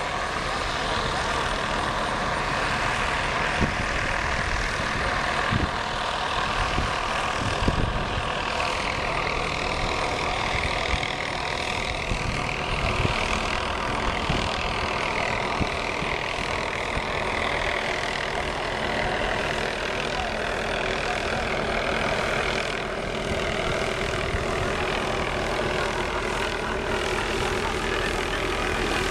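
MD 500E helicopter's turbine engine and rotor running steadily, a continuous engine sound with a few whining tones that slowly bend in pitch.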